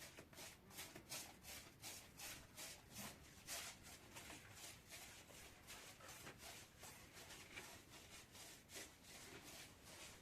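Faint, rapid rubbing or scraping strokes, about four a second, repeated steadily.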